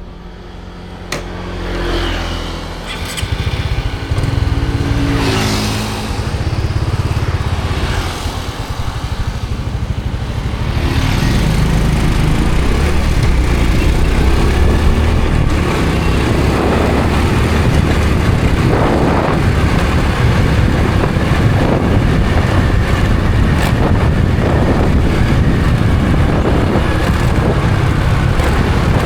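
Honda Supra X 125 FI motorcycle's single-cylinder four-stroke engine pulling away, its pitch rising several times over the first ten seconds, then running steadily at speed.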